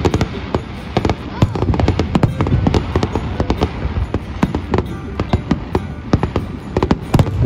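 Aerial fireworks bursting in quick succession: many sharp bangs and crackles, several a second, over a low rumble.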